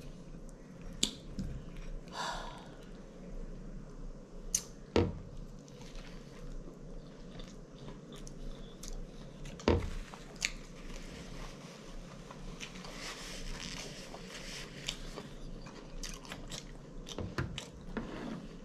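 A person chewing a mouthful of food with wet mouth clicks and smacks. Two dull knocks stand out, about five and ten seconds in.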